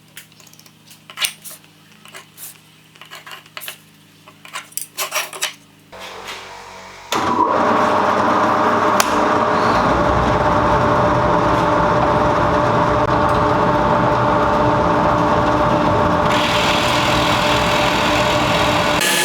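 Light clicks and knocks of wood being handled, then about seven seconds in a power tool starts and runs steadily on the wood.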